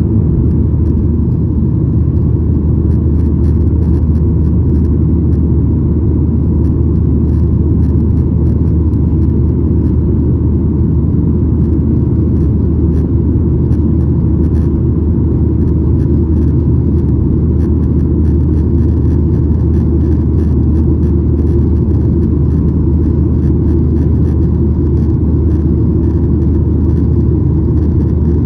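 Cabin noise inside a Boeing 737-900ER: a steady, loud, deep rumble of its CFM56 jet engines and airflow, with a low hum underneath, unchanging throughout.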